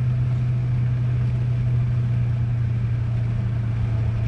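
2013 Dodge Charger's engine running at a steady, unchanging pitch under way: a low, even drone with road noise.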